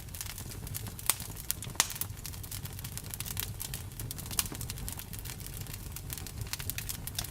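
Campfire burning: wood crackling with constant small snaps, a few louder pops, and a low rumble of the flames underneath.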